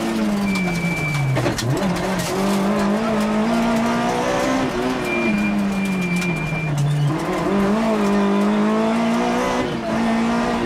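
Rally car engine heard from inside the cockpit, its revs falling twice as the car slows into corners and climbing again as it accelerates out. A brief high squeal sounds during each slowdown.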